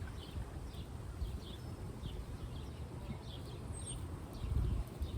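Horse moving under a rider, with hoof falls in a low rumble, while a bird chirps over and over with short falling notes about twice a second.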